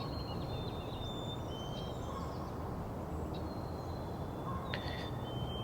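Northern cardinal singing: clear whistled notes, some held level and some slurring, over a steady low rumble of background noise.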